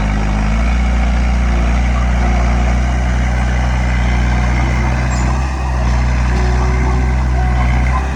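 Bulldozer's diesel engine running steadily at working revs, dipping briefly about five and a half seconds in before picking up again.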